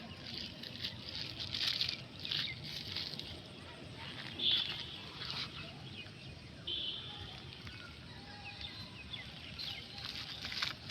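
Scattered short rustles and crackles over a low outdoor background: plastic litter being pulled from the soil and handled.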